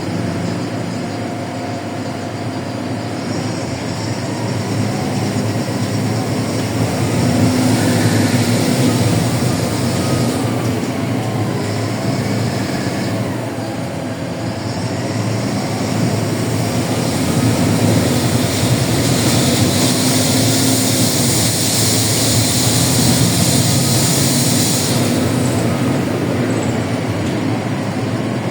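LiAZ 4292.60 city bus on the move, heard from inside the cabin: the diesel engine runs steadily under road and tyre noise, with a whine that rises and falls in pitch. A stronger hiss comes in for several seconds about two-thirds of the way through.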